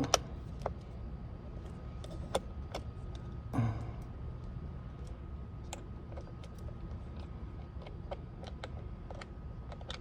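Scattered small clicks and taps of a hand tool and metal parts being handled while loosening the screws behind a steering wheel's airbag, with one louder knock about three and a half seconds in, over a steady low hum.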